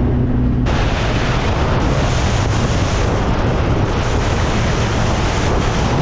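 Car driving, its engine a steady low drone under a loud rushing noise of wind buffeting the microphone that starts suddenly under a second in.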